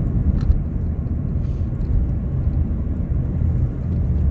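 Steady low rumble of a Mk7 Ford Fiesta on the move, heard from inside the cabin: engine and road noise.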